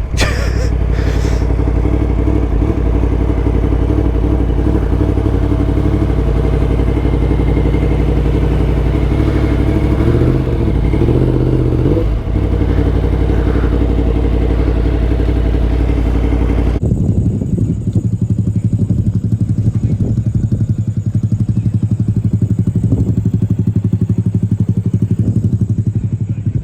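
Yamaha MT-10's crossplane inline-four engine running at steady revs through a loud Akrapovic titanium exhaust, with a brief rise and fall in revs partway through. About two-thirds of the way in the sound changes abruptly to a rapid, evenly pulsing engine note.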